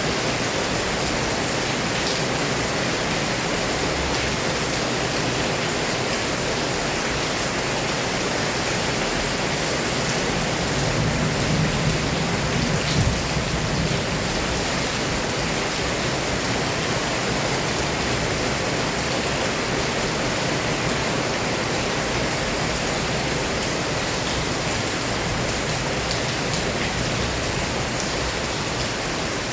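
Heavy rain pouring steadily, an even rushing hiss, with a low rumble swelling briefly about eleven to fourteen seconds in.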